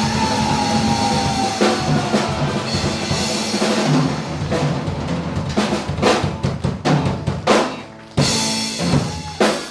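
Live rock band ending a song: the drum kit plays fills and a run of heavy accented hits over held chords, with a few last strikes near the end.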